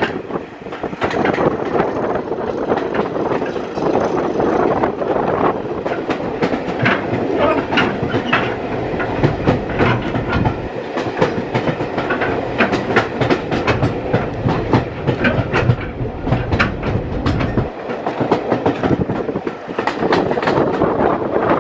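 The ride aboard a British Rail Mk1 passenger coach on the move: a steady rumble of wheels on rail, with many sharp clicks as the wheels run over rail joints.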